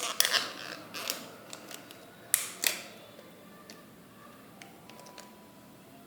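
Handling noise from a new smartphone being worked in the hands: a series of clicks and creaks, the loudest a pair about two and a half seconds in, then only faint ticks.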